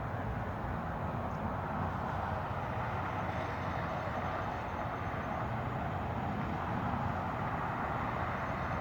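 Steady, even rush of distant highway traffic on Interstate 19, with no thunder.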